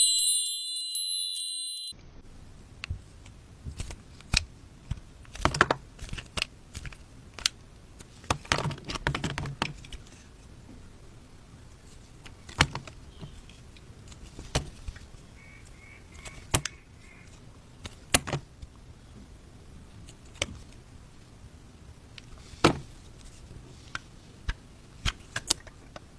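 Bars of soap being cut with a blade: sharp, crunchy cracks and clicks, one every second or two, with a quick cluster of them about nine seconds in. Two seconds of high chiming tones open it.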